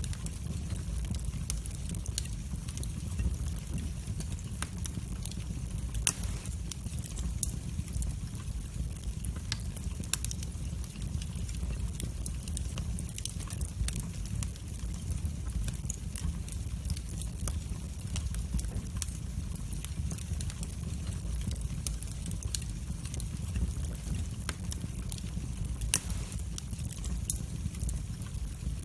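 Wood fire burning in a fireplace: a steady low rumble of flames with frequent small crackles and snaps, and two louder pops, one about six seconds in and one near the end.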